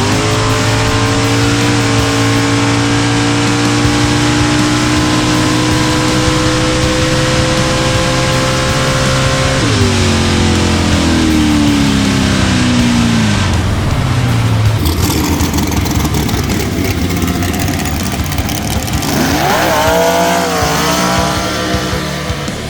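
Drag race car's engine at full throttle on a licensing pass down the strip, its pitch held high and climbing slowly for about nine and a half seconds. The driver then lifts and the engine winds down over the next few seconds.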